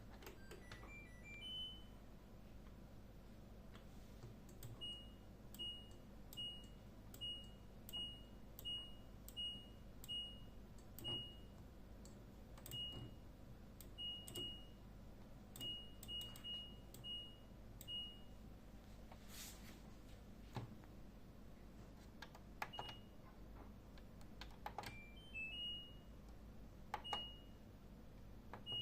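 LG Direct Drive washing machine's control panel beeping: a short rising jingle at the start, then a string of identical short high beeps about one every 0.7 s, and another short rising jingle near the end. Faint clicks of buttons being pressed come between the beeps.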